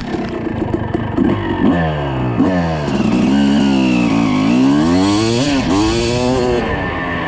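2006 Suzuki RM250's single-cylinder two-stroke engine revving, its pitch rising and falling with the throttle, dipping and then climbing in a long rev through the middle.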